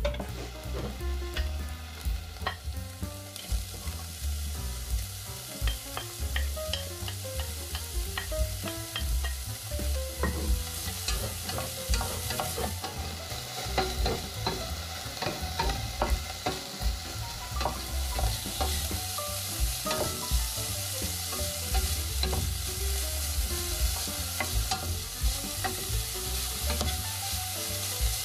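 Diced vegetables sizzling as they sauté in a stainless steel pot, with a wooden spatula stirring and scraping against the pot in frequent short knocks. A low steady hum runs underneath.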